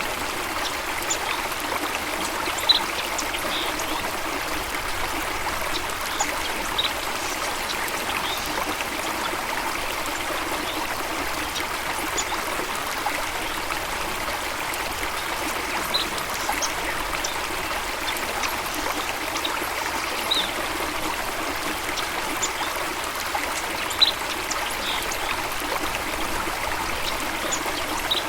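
Steady running water from a stream or small waterfall, with short, high bird chirps every few seconds.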